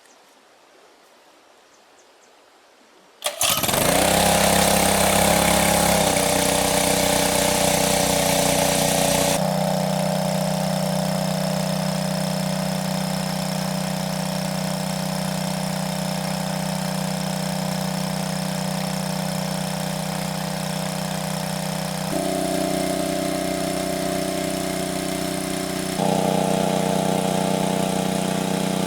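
A small engine starts suddenly about three seconds in and then runs steadily, its note shifting in steps a few times as it settles and changes speed.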